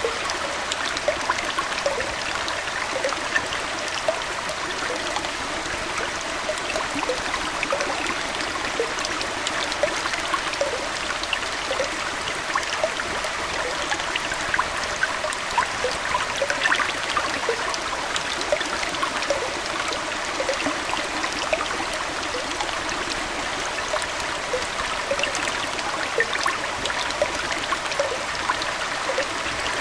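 Aquarium water splashing and trickling steadily, like a small indoor stream, with many small droplet plinks scattered through it.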